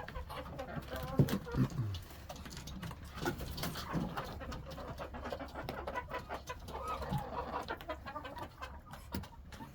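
Muscovy ducks and other poultry making soft, low calls, a few of them sliding down in pitch about a second in, with scattered small ticks and clicks.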